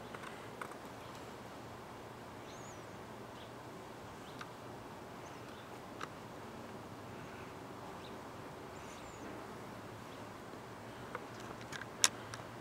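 A woodpecker pecking at wood: scattered single taps a few seconds apart over a faint steady outdoor background, with a sharper, louder click near the end. Two faint high chirps are heard in between.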